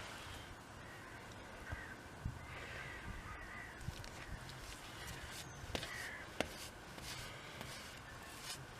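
Birds calling outdoors: a few short, harsh calls, with a couple of sharp clicks around the middle.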